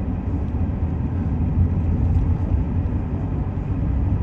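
Steady low rumble of a Chevrolet truck driving, heard from inside the cab: engine and road noise.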